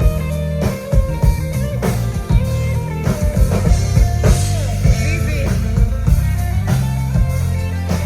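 Band music: bass guitar playing stepped low notes under guitar and drum kit, with steady drum hits.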